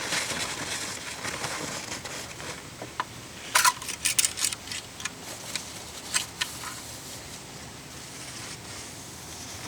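Wind hissing on the microphone, then a cluster of sharp clicks, taps and rustles about halfway through from handling a rag and parts at the engine bay while checking the oil.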